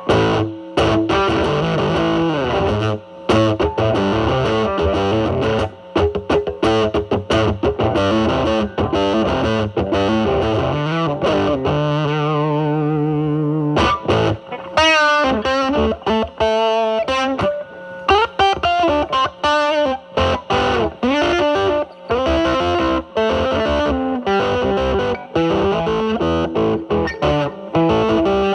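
Electric guitar, a Telecaster with single-coil pickups, played through a DIY Mosrite Fuzzrite clone with a 2N2369 silicon transistor into a Marshall Valvestate's drive channel, with the fuzz cleaned up by rolling back the guitar's volume. It plays picked lead lines, a held chord with vibrato about 12 seconds in, then string bends.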